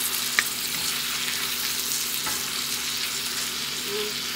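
Tomatoes, onions and garlic sizzling in hot oil in a wok as they are stirred with a spatula, which clicks against the pan a few times, most sharply about half a second in.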